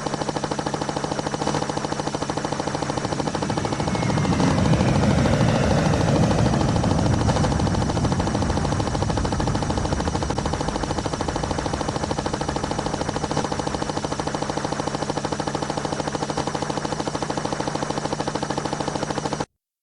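Helicopter rotor chopping in a rapid, steady beat, swelling louder about four to seven seconds in, then cutting off suddenly just before the end.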